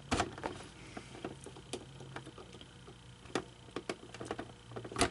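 Irregular small clicks and taps of hard plastic parts being handled, as a toy's locked-up motor and mouth mechanism are worked by hand to free them, with a sharper knock just after the start and another near the end.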